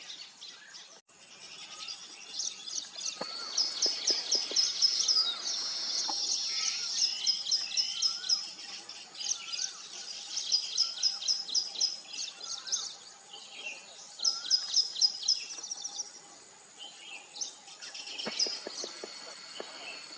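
Weaver birds chattering at their nest colony: runs of rapid high chirps, several short bursts of them, mixed with lower wavering calls over a steady high whine.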